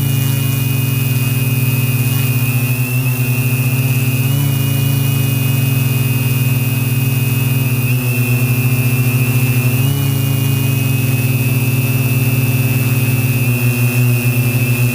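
Align M470 multirotor drone in flight: its motors and propellers give a steady loud buzz with a high whine above it, the pitch shifting briefly every few seconds as the motors adjust.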